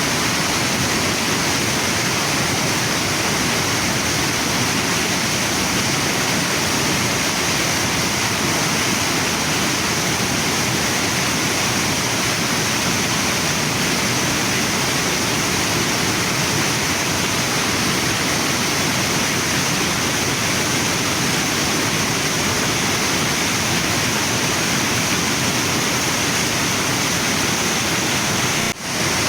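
Waterfall and river water rushing in a steady, unbroken roar, with a brief dip in loudness just before the end.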